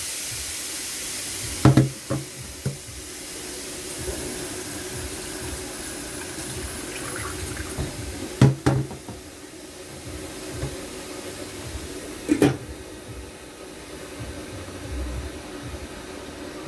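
Cookware being handled: metal pots and utensils knock and clank in three short clusters over a steady hiss.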